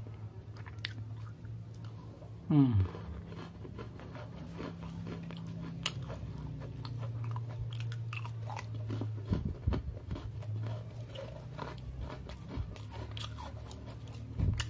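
Crunchy Oreo sandwich cookie being chewed, with many small crunching clicks over a steady low hum. About two and a half seconds in there is one short, loud, falling tone.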